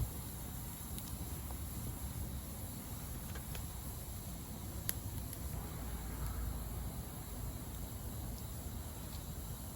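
Wood campfire crackling: a few sharp, scattered pops over a low steady rumble.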